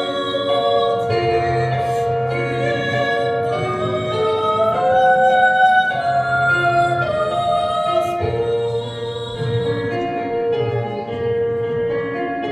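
A woman singing a slow song with vibrato on the held notes, over instrumental accompaniment.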